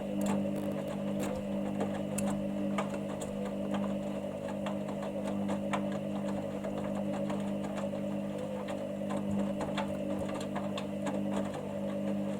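Hoover Dynamic Next washing machine turning its drum during the main wash: a steady motor hum with irregular clicks and knocks from the tumbling load.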